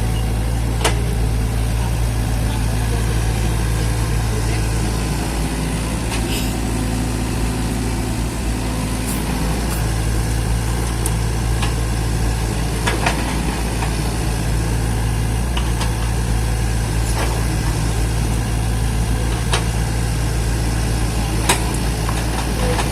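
Mini excavator engine running at a steady idle-like speed, with a few short sharp clicks or knocks scattered through.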